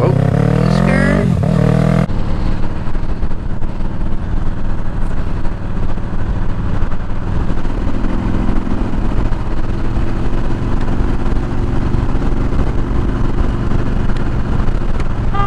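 Motorcycle engine revving, its pitch rising and falling. About two seconds in, the sound changes abruptly to a steady, even engine note.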